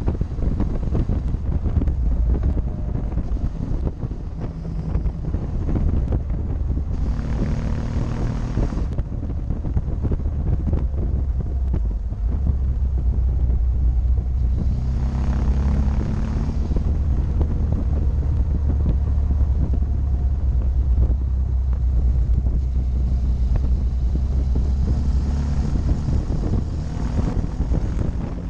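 Motorcycle engine running steadily while riding, its note shifting up and down, with wind noise on the rear-mounted camera's microphone. Twice the rushing noise swells for a couple of seconds.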